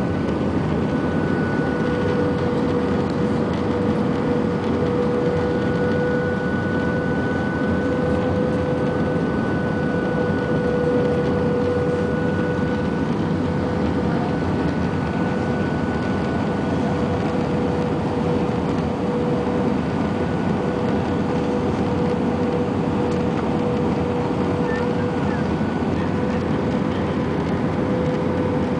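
Steady airliner cabin noise: the jet engines and airflow give an even rush with a constant whine running through it.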